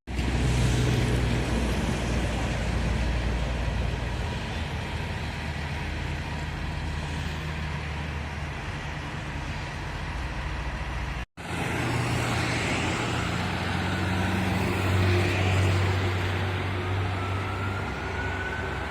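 Fire trucks driving along a road: diesel engine hum and tyre noise. There is a brief dropout about eleven seconds in. Near the end a siren starts up, rising slowly in pitch and then falling.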